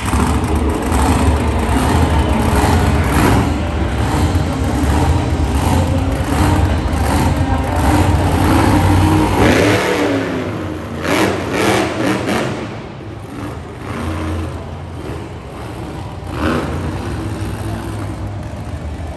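Mega Wrex monster truck engine running and revving hard, loudest through the first half and then easing back.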